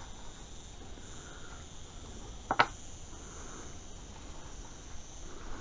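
A sharp double click from handling a welding cable and its crimp terminal about two and a half seconds in, over a steady high-pitched whine.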